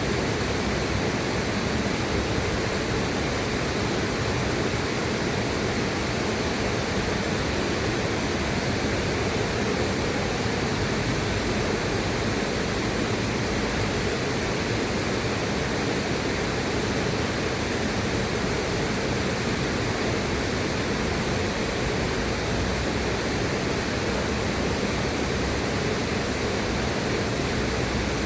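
Steady rushing of a river: an even, unbroken wash of water noise with no splashes or changes.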